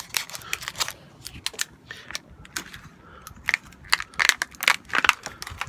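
Plastic wrapping of a bird-feed package crinkling and crackling in irregular snaps as it is pulled open by hand.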